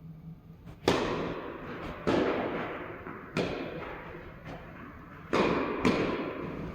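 Tennis ball being hit back and forth in a rally: five sharp pops of racket on ball and ball on court, roughly a second apart, each followed by a long echo.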